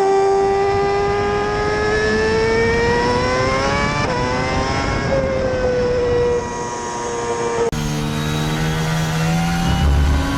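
Red Bull Racing Formula One car engines at high revs. The first engine note rises steadily, breaks for a quick gear change about four seconds in, then holds. A sudden cut near eight seconds brings in another car with a lower note that steps between gears.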